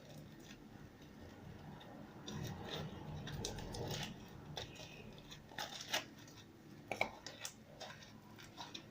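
Faint sticky clicks and soft squelches of homemade borax-and-glue slime being stretched and handled, a little louder for a second or so near the middle.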